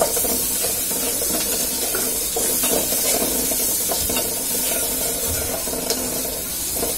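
Onion, green chili, ground spices and ginger-garlic paste sizzling in hot oil in an aluminium pot, stirred with a long metal spoon that scrapes and taps against the pot.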